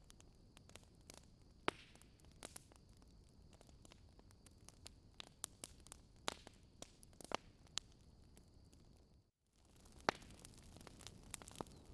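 Wood fire crackling in a fireplace: irregular sharp pops and snaps over a faint low hiss. The sound cuts out for a split second about nine seconds in, then the crackling resumes.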